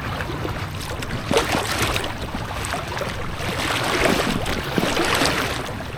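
Fast-flowing river water rushing and splashing around an inflatable kayak running a small rapid, a continuous wash dotted with short splashes.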